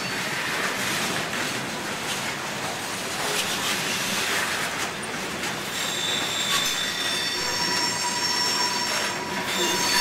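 Railroad cars rolling past close by with a steady rushing rumble. From about six seconds in, the wheels begin to squeal on the rails with several high, steady tones.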